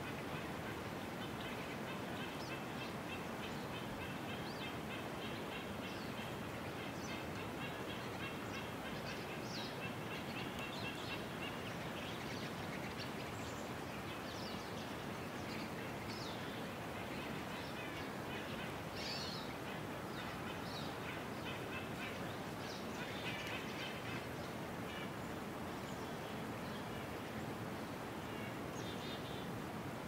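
Small birds chirping and trilling over a steady background hiss: rapid trills in the first half, scattered chirps after.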